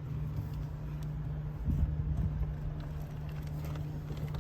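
Steady low hum in the background, with faint small clicks and a brief low scuffing of parts being handled inside a car door.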